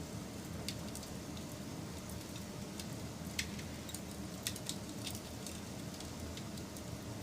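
Wood fire crackling: irregular sharp pops and snaps over a steady low rumble of burning, with the loudest pops about three and a half and four and a half seconds in.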